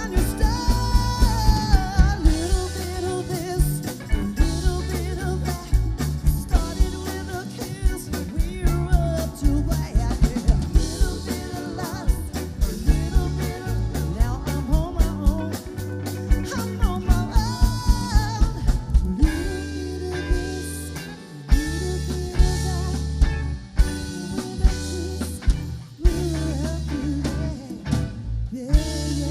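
Live band playing a pop-rock song: drum kit, bass and guitar, with a wavering lead melody over them.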